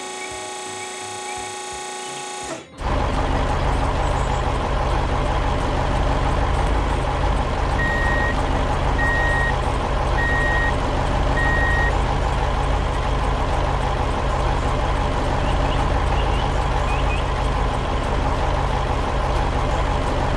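A heavy truck's engine running steadily with a deep rumble, starting abruptly about three seconds in after a short, quieter steady hum. Around the middle, the truck's reversing alarm beeps four times, about a second apart.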